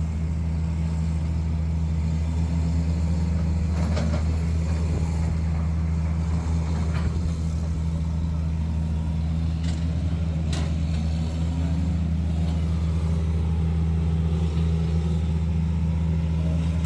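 A large engine running steadily under a constant low drone, with a few faint knocks about four, seven and ten seconds in.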